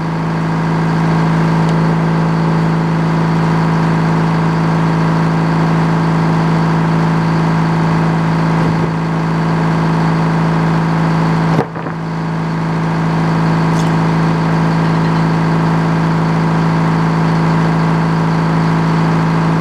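Sawmill engine running at a steady speed, with one brief dip in level about eleven and a half seconds in.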